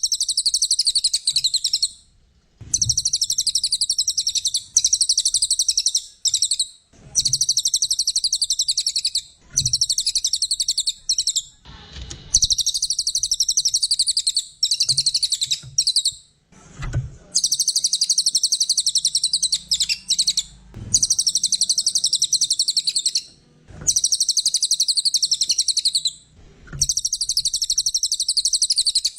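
Brown cililin (cililin coklat) songbird singing: a rapid, high-pitched chattering song in phrases of about two seconds, a dozen or so in a row with short pauses between them, as used for a masteran tutor recording.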